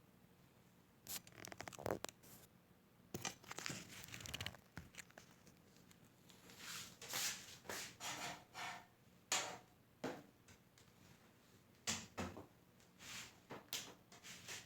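Irregular scratching and rasping handling noises, a dozen or so short bursts with brief pauses between them, like tape or plastic being worked by hand.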